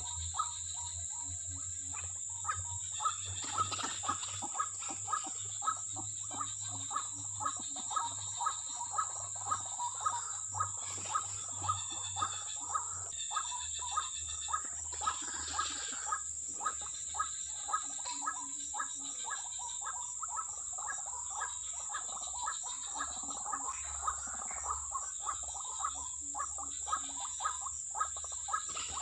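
Insects chirring steadily, with a loud call repeating in an even rhythm about twice a second.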